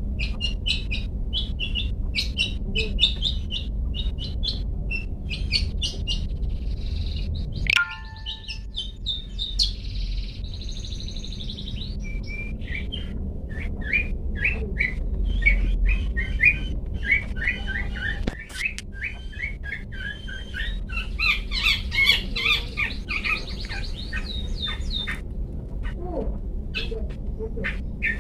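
Long-tailed shrike (cendet) singing a rapid, chattering series of sharp chirps and whistled notes, with brief pauses and a denser run of notes about three quarters of the way through.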